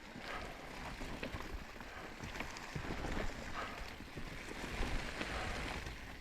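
Full-suspension mountain bike rolling along a dirt forest trail: steady tyre and riding noise with scattered clicks and rattles.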